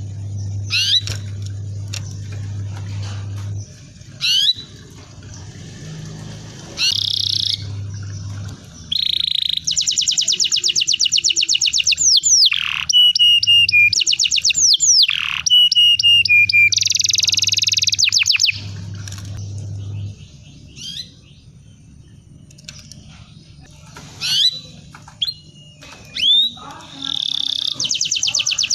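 Canary singing: fast trilled rolls of rapidly repeated high notes, broken by sharp downward-sliding whistles and single chirps. A low steady hum comes and goes underneath.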